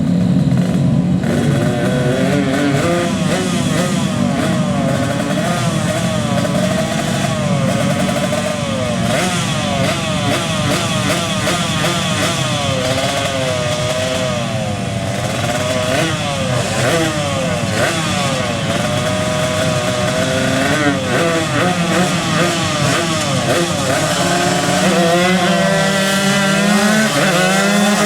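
Tuned two-stroke motorcycle engines, a Kawasaki Ninja 150 and a Yamaha RX-King, revving hard. More than one engine runs at once, with the throttle blipped up and down over and over.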